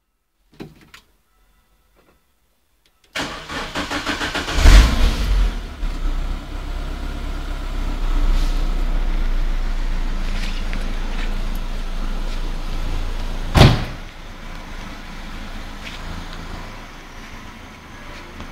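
Renault Clio 182's 2.0-litre 16-valve four-cylinder engine started for the first time after its track-car build: a few seconds of cranking, catching with a loud rev, then settling into a steady idle. A single sharp bang about two-thirds of the way through, after which the idle is quieter.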